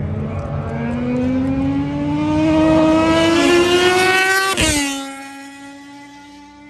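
Britten V1000 race motorcycle's V-twin engine accelerating hard, its pitch climbing steadily, then dropping sharply about four and a half seconds in on an upshift. After the shift the note holds lower and fades.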